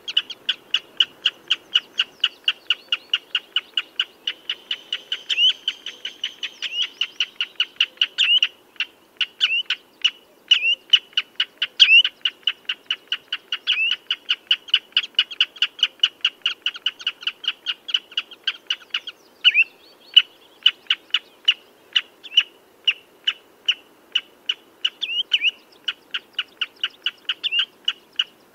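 Common redshank calling: a fast, steady series of short high piping notes, about four or five a second, with louder down-slurred notes now and then.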